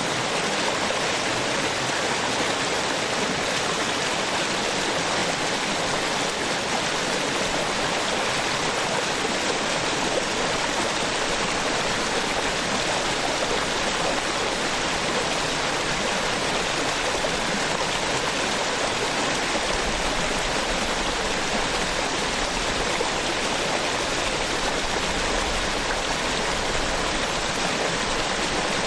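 Small waterfall on a stream: a steady, even rush of falling and flowing water.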